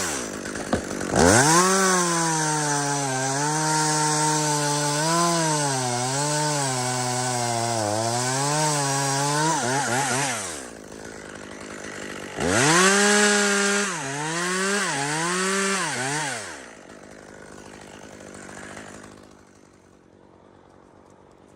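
Chainsaw revving up and running through a cut in spruce wood for about nine seconds, its pitch dipping now and then as the chain loads up in the cut. It drops back, revs again for about four seconds with a few more dips, then falls away to a low, fading run.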